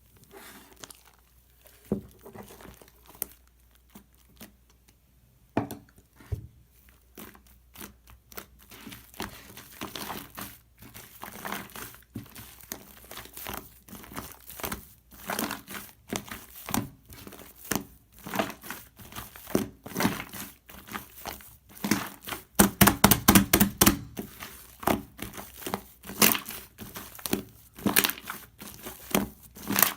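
Hands pressing, squishing and stretching a fluffy shaving-foam slime, making irregular crackling, popping and crinkling sounds. It starts sparse and grows denser, with a run of loud crackles near the end.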